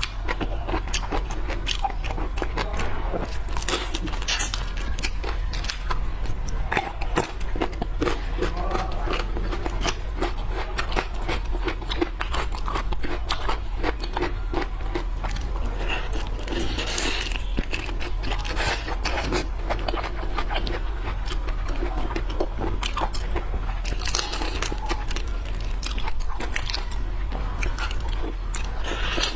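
Close-miked eating of seafood: steady biting and chewing with many small, irregular crunching clicks, over a faint steady low hum.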